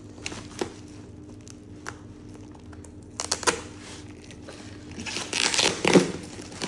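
A taped cardboard box and its packaging being opened by hand: crinkling, rustling and scattered sharp clicks, busiest near the end.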